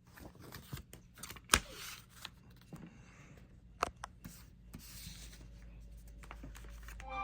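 Handling of a DVD case and its paper inserts: soft rustling with a few sharp plastic clicks.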